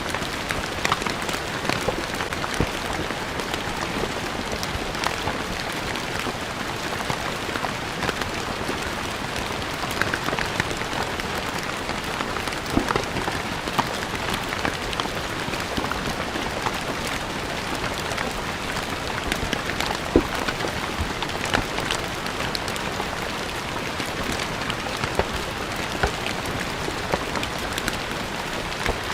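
Steady rain falling on stone paving, a dense even hiss with many individual drops ticking and splashing on the hard surface.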